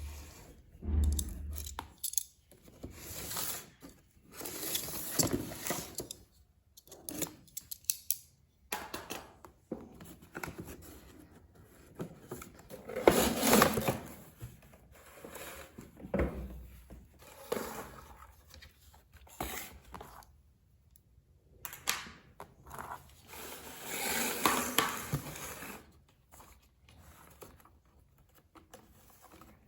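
Toy packaging being handled and opened by hand: irregular rustling, tearing and scraping with scattered clicks and knocks, in short bursts with brief pauses.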